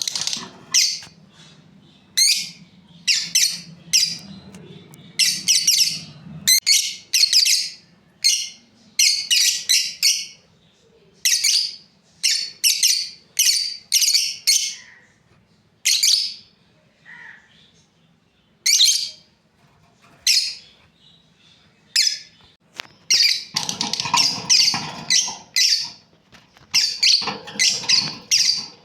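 Lovebirds chirping: sharp, high-pitched chirps in quick clusters with short pauses between, busiest about three-quarters of the way through.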